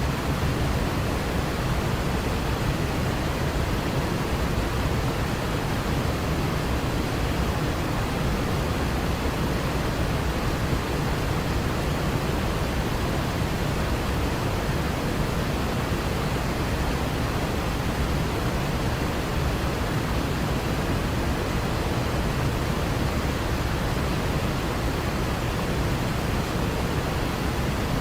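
Waterfall: a steady, unbroken rush of falling water, deep and even with no change.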